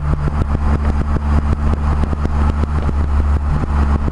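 A car engine running steadily close by, its low note pulsing evenly with no revving.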